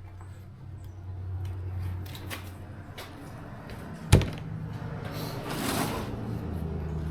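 A single sharp knock about four seconds in, then a hiss about a second long, over a steady low hum.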